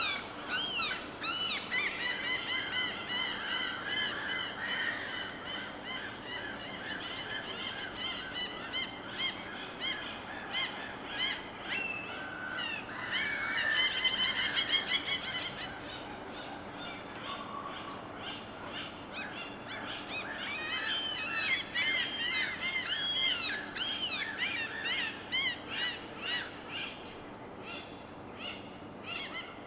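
Many birds calling at once: a dense, continuous chorus of short, repeated, overlapping calls, busiest about halfway through and again two thirds of the way in, over a soft steady background hiss.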